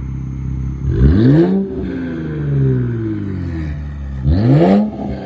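Infiniti Q60 with its muffler and resonator deleted, revved twice over a steady idle. Each rev climbs quickly in pitch and then falls back more slowly.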